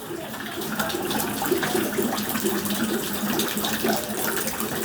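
Torrential rain pouring into an unroofed building, water splashing and dripping steadily with many small patters.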